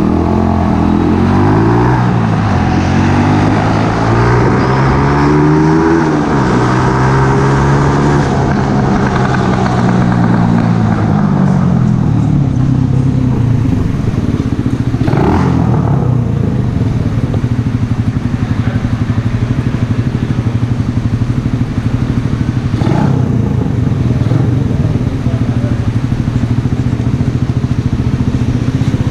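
Mash Café Racer 125's single-cylinder four-stroke engine running through a Megaton aftermarket exhaust. For about the first twelve seconds its pitch climbs and drops in steps, then it settles to a steady idle, broken twice by a short sharp sound.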